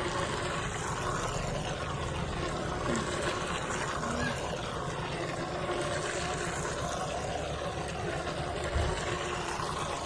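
Toy remote-control boat's small electric motor running steadily in water, with a continuous churning noise.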